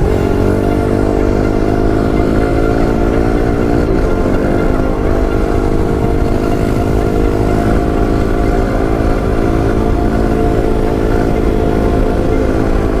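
Pit bike engine running steadily at speed, its pitch holding fairly even with a brief dip about four seconds in. Wind rumbles on the microphone.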